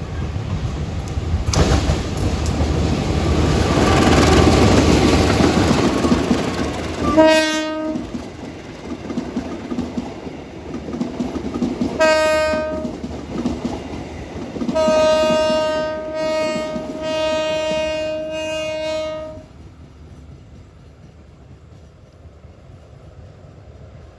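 Train of loaded flat wagons rumbling past on the rails, then its locomotive horn sounding: a short blast, another short blast about five seconds later, then three longer blasts close together. After the horn stops, only a quieter rolling rumble remains.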